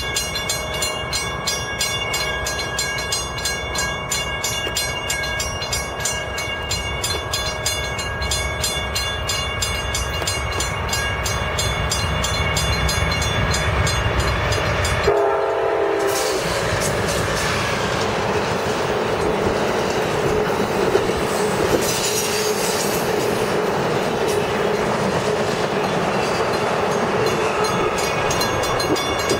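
Amtrak passenger train behind a GE P42 diesel locomotive, its horn sounding for about the first half as it approaches. Then the bilevel Superliner cars rumble and clatter past on the rails.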